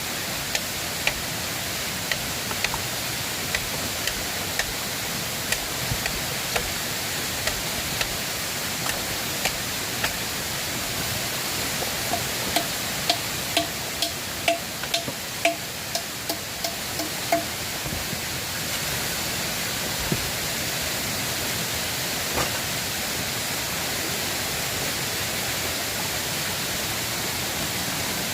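Steady rush of river water, with sharp clicks about once a second over it. Midway comes a short run of brief pitched notes, about two a second.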